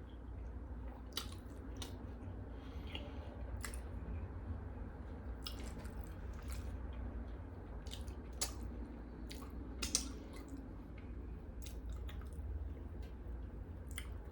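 Close-miked chewing of food, with scattered short, sharp mouth clicks and smacks over a steady low hum.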